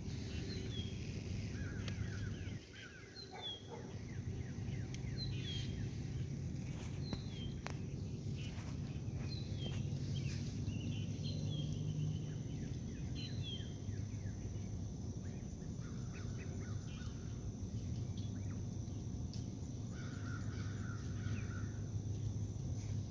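Birds calling: short, high notes that slur downward, repeated about once a second, with a few lower buzzy calls. Under them run a steady high insect drone and a low hum.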